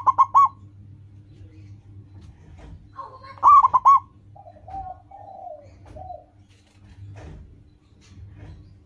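Zebra dove (perkutut) cooing its song: a burst of rapid, loud staccato coos right at the start, another about three seconds in, then a few softer, lower drawn-out coos. A faint low hum lies underneath.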